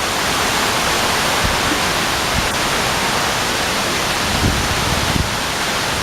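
Heavy storm rain pouring down in a loud, steady rush, with a few short low thumps from gusts or impacts.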